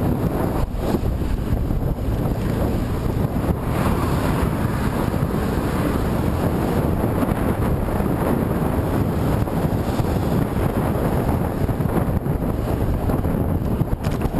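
Wind rushing over the microphone from riding into a headwind: a steady, loud, low rush with no letup.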